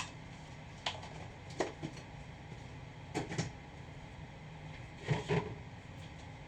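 A handful of short knocks and clatters, several in quick pairs, over a steady low hum.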